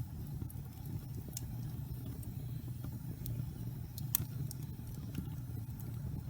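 Wood fire burning in a fireplace: a steady low rumble of flame with scattered sharp crackles and pops from the logs, the loudest about four seconds in.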